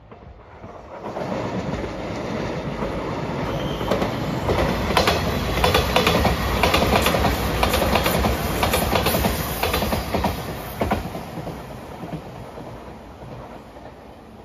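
JR Shikoku 8000 series electric express train passing close by. The noise builds within about a second, the wheels clack over the rail joints in quick, uneven clicks through the loudest part, and it fades away near the end.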